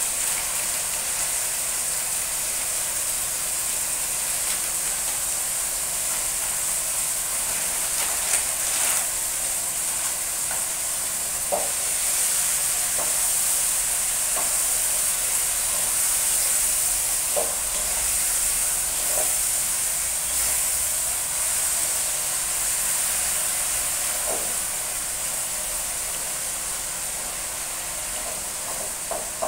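Vegetables sizzling and steaming in a wok with a little water: a steady hiss, with a few light taps and scrapes of a spatula against the pan.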